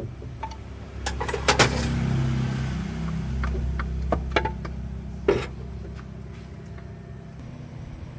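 A motor vehicle engine running with a low rumble that swells about a second in and eases off near the end. Several sharp metallic clunks come between one and two seconds in and again between four and five and a half seconds.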